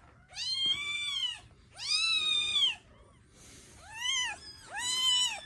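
Newborn kitten meowing: four high-pitched cries, the first two about a second long and the last two shorter.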